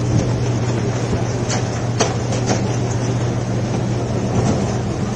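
A ferry's engines running with a steady low hum under a rushing noise, with a few light knocks about two seconds in.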